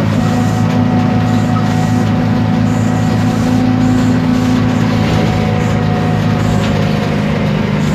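Isobus City 1200 city bus under way, its MAN D0836 LOH six-cylinder diesel and ZF Ecomat automatic driveline giving a steady hum, with a fainter higher whine that fades about halfway through.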